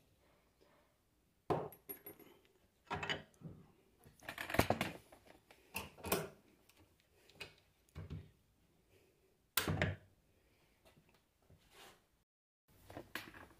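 Metal parts of a disassembled Bosch alternator being handled and set down on a workbench: a dozen or so scattered clinks and knocks with quiet gaps between them.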